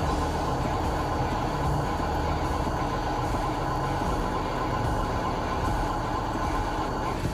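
Radio-controlled model truck running, a steady mechanical drone from its motor and drivetrain.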